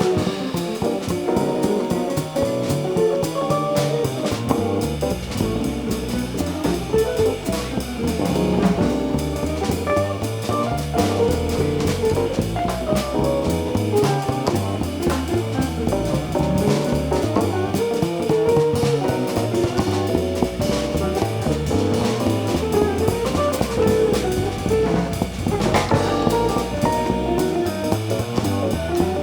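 Jazz combo playing live: drum kit with guitar, a steady dense ensemble passage without a break.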